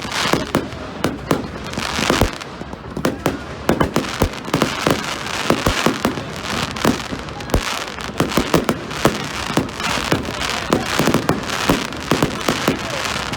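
Fireworks going off in rapid succession: a dense, continuous run of sharp bangs and crackles, several a second, each followed by a short echoing tail.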